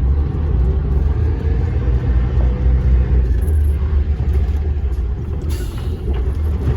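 DAF dump truck's diesel engine heard from inside the cab, a steady low rumble as the truck crawls along in slow traffic. There is a short hiss about five and a half seconds in.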